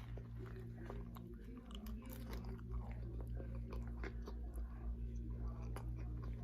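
Close-up chewing and biting of a Subway sandwich, with irregular small crunches and mouth clicks, over a steady low hum.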